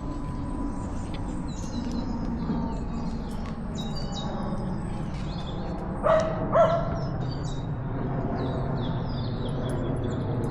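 Small birds chirping and singing, with a dog barking twice in quick succession about six seconds in, over a steady low rumble.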